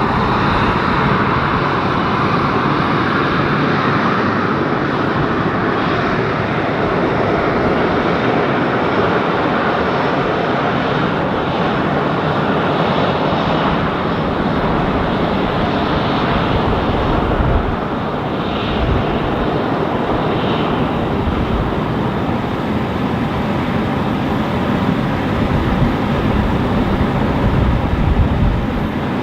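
Airbus A330-302 jet airliner's two General Electric CF6-80E1 turbofan engines running loud and steady, a dense roar over a deep rumble.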